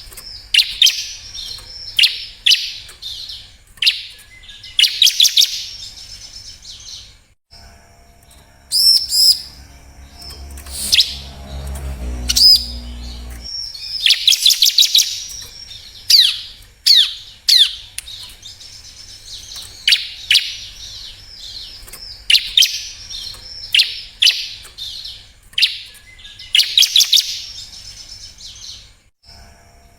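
Bar-winged prinia (ciblek) singing: short bursts of sharp, high chirping notes repeated every second or two, with a short break about a quarter of the way in.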